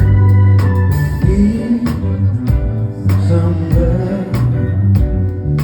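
Live rock band playing an instrumental passage, with bass, drums on a steady beat, guitar and held keyboard or organ notes, and some vocal sounds over it.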